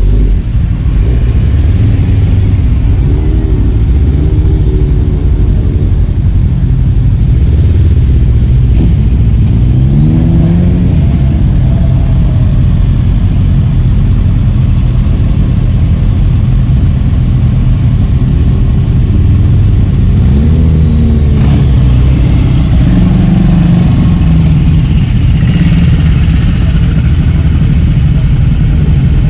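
Motorcycle engine running on the move under a loud, steady low rumble, its pitch rising and falling a few times as it revs up and eases off.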